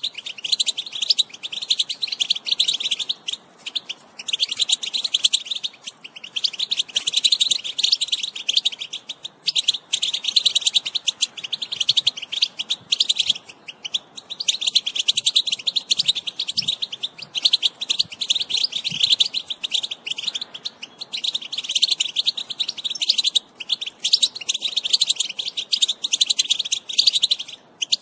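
A group of European goldfinches twittering: fast, dense chattering calls that run on with brief breaks every few seconds.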